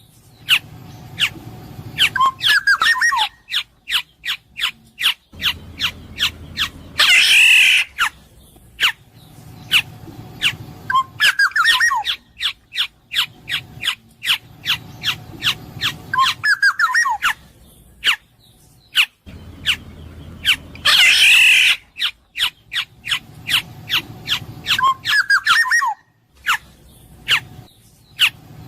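Black-naped oriole (kepodang) calling: short warbled whistled phrases and a loud harsh squawk about 7 seconds in and again about 21 seconds in, among rapid sharp clicking notes. The same sequence repeats about every 14 seconds.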